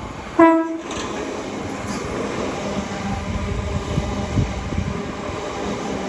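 Electric passenger train giving one short, single-note horn toot, then the steady running sound of the train moving along the track.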